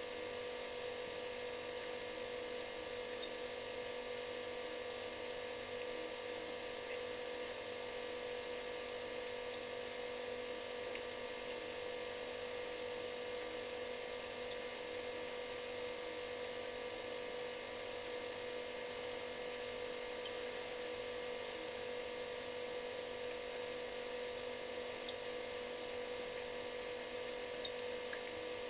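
Refrigerator running with a steady, even buzzing hum over a faint hiss.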